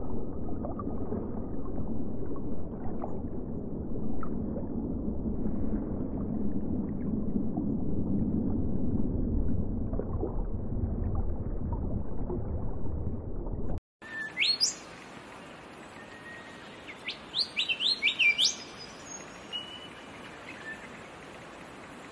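A low, steady rumbling noise, then an abrupt cut to a faint hiss with a small bird's quick, high chirps, several in a short cluster about two-thirds of the way through.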